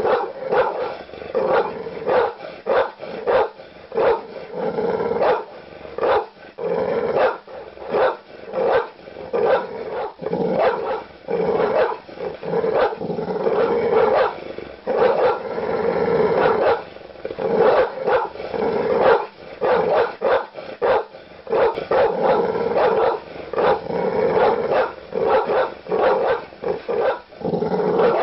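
Large dogs barking aggressively and loudly, rapid deep barks several a second over continuous growling.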